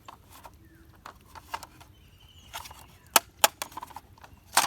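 Plastic toy vehicles being handled: light taps and clicks, then three sharper clicks, two about three seconds in and one near the end.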